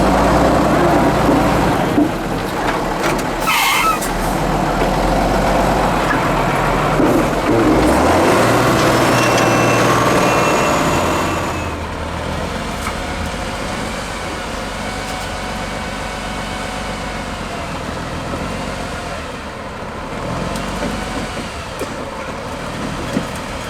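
Heavy off-road trial truck's diesel engine running hard under load, its pitch rising about eight seconds in, then dropping back to quieter, steadier running about halfway through. A brief hiss comes a few seconds in.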